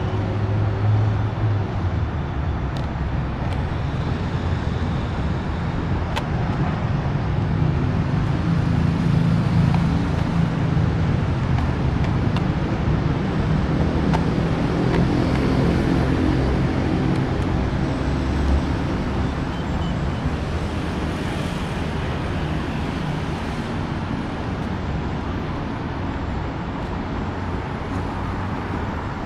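Motor vehicle engine running with a steady low rumble of road traffic, easing off slightly toward the end.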